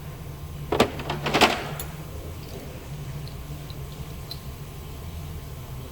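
A short cluster of sharp knocks and clatter about a second in, two of them louder, over a steady low hum.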